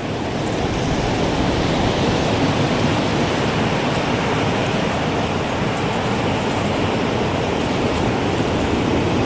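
Strong gusting wind, a steady rushing noise that swells slightly in the first second or so; no chime clearly rings through it.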